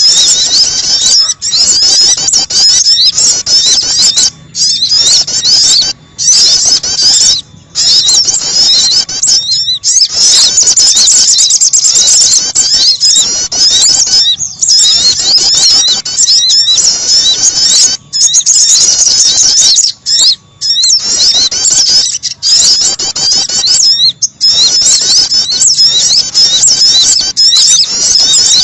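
Loud, continuous bird-lure recording of small songbirds calling: rapid high-pitched chirps and twitters, overlapping densely, with short breaks every second or two.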